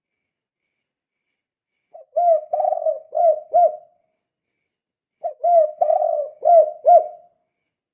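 Spotted dove (tekukur) singing its 'kuk 2' song: two cooing phrases about three seconds apart, each a rolling coo that ends in two clipped 'kuk' notes.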